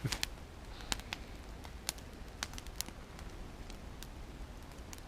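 Wood campfire crackling: sharp, irregular pops and snaps, a few each second, over a low steady rumble.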